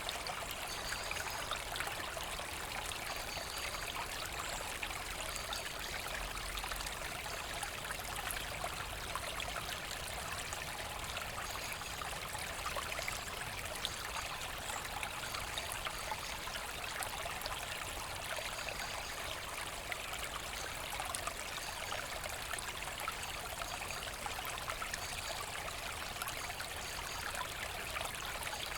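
Small forest brook flowing steadily, a continuous rush of running and splashing water.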